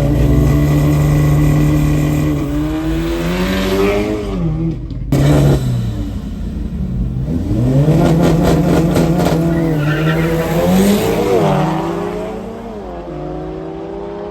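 Performance car engines revving hard: the note is held steady at high revs, then climbs, breaks off abruptly about five seconds in, and is followed by another engine held and then climbing, with a further engine rising in pitch near the end.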